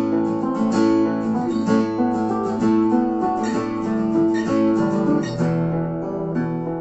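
Two acoustic guitars strumming chords in an instrumental gap between vocal lines, with a chord change about five seconds in.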